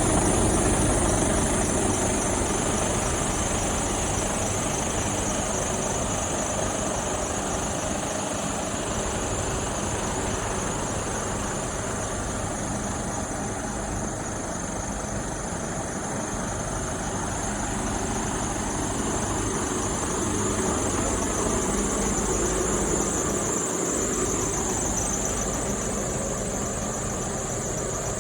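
Mercedes-Benz Actros 1848 truck's diesel engine running steadily, with a constant high-pitched whine over the engine note.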